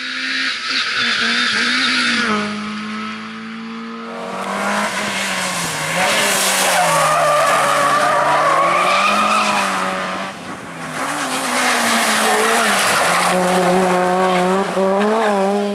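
Rally cars driven flat out, engines revving up and dropping back through gear changes, with loud tyre skidding. The sound changes about four seconds in as another car takes over.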